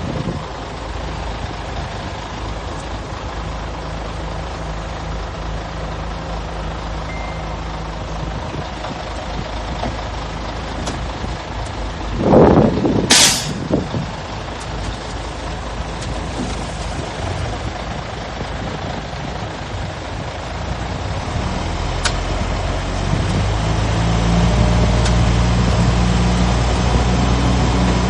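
Heavy diesel engines of a dump truck and bulldozer running steadily, with a short loud burst about halfway through ending in a sharp air-brake hiss. The engine note grows louder near the end.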